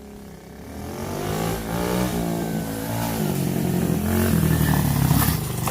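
Small dirt bike engine revving and pulling away, growing louder with pitch climbing, dipping about halfway, then climbing again. A brief rush of noise near the end.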